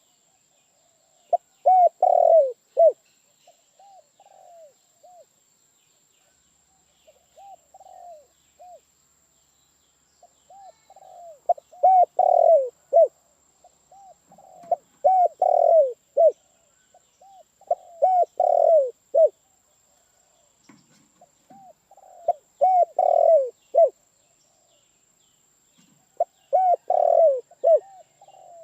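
Spotted dove (tekukur) cooing: phrases of several arching coos repeated every few seconds, loud bouts alternating with fainter ones. A faint steady high-pitched whine runs underneath.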